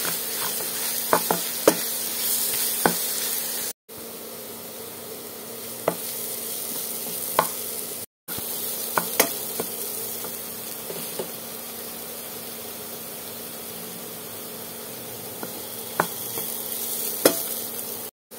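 Olive pieces and coconut-and-peanut paste sizzling in hot oil in a non-stick frying pan while a wooden spatula stirs them, with scattered sharp clicks and scrapes of the spatula against the pan. The sound breaks off for a moment three times.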